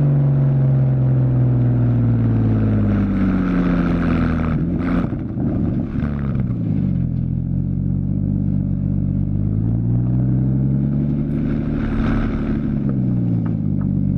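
2015 Porsche Boxster's 2.7-litre flat-six through a Fabspeed Maxflo aftermarket exhaust, its note falling as revs drop, with a few sharp pops about five seconds in. The revs then climb again and fall once more near the end.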